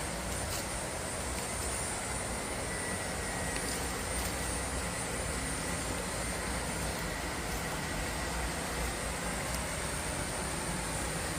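Steady rush of flowing river water, with a faint thin high tone over it.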